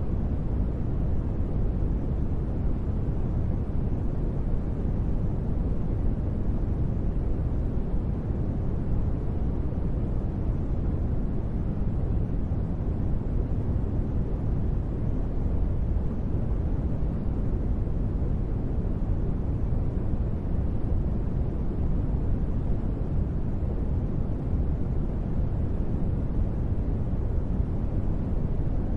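Steady ambient noise track: an even, deep rumbling hiss with most of its weight in the low end and little in the highs, unchanging in level.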